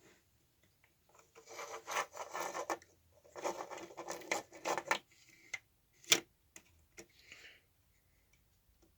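Small scale model truck parts rubbing: the skip container scraping along the lift arm and bed in two spells of about a second each, then a sharp click about six seconds in and a few faint ticks.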